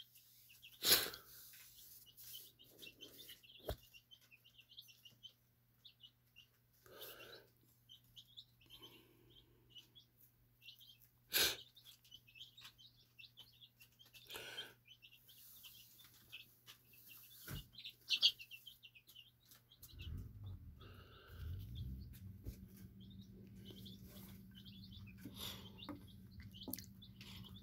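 Faint small-bird chirps repeating in the background, with a few sharp clicks in between. A low hum comes in about twenty seconds in.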